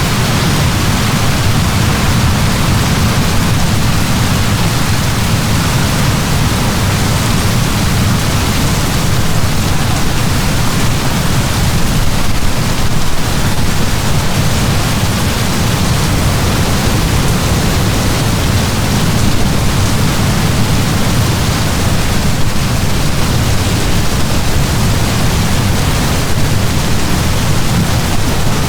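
Heavy downpour of rain: a steady, dense hiss with a deep rumble beneath, unchanging throughout.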